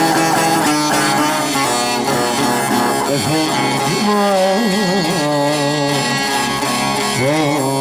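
Turkish folk music (bozlak) played on stringed instruments, with a steady drone under an ornamented melody that bends and wavers in pitch.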